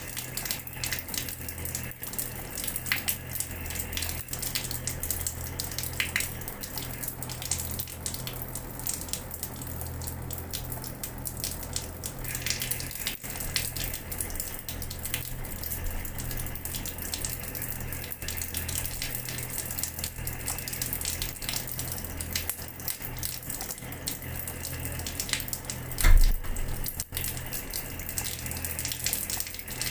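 Water running from a tap and splashing onto a floor: a steady spatter full of small sharp splashes over a low rumble. A single low thump stands out about three-quarters of the way through.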